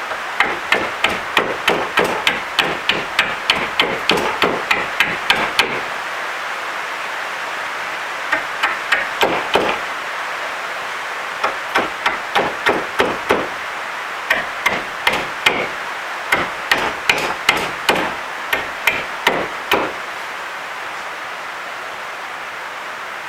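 Quick sharp knocks of a hand tool working a small piece of very dense hardwood, about three a second in runs separated by short pauses, over a steady hiss. The runs stop a few seconds before the end.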